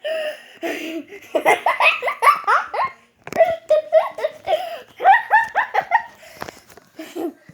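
A person laughing hard in several bursts of quick, pitched ha-ha pulses, with short breaths and pauses between the bursts.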